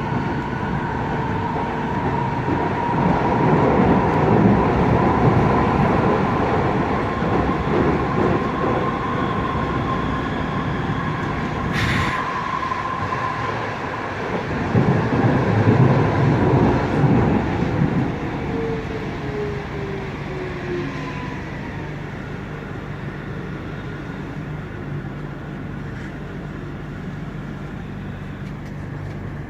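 U-Bahn train heard from inside the car while running: steady wheel and rail rumble that swells around four seconds in and again around sixteen seconds, with a sharp click about twelve seconds in. A falling motor whine follows, after which the sound settles to a quieter steady hum as the train slows.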